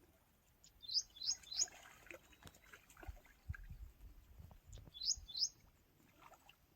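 A bird chirping: three quick rising chirps about a second in, then two more near the end.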